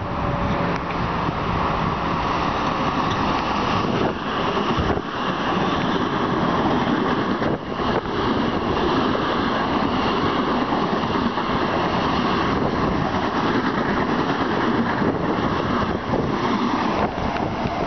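Long Island Rail Road M7 electric multiple-unit train running through the station at speed without stopping, a steady loud rush of wheels on rail and moving air as the cars pass close by.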